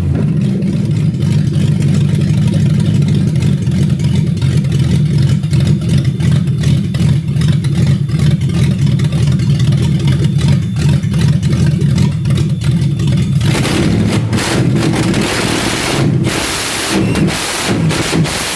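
Toyota 1UZ-FE 4.0-litre V8 idling steadily. From about 13 seconds in, it is revved with a few throttle blips, its pitch rising and falling.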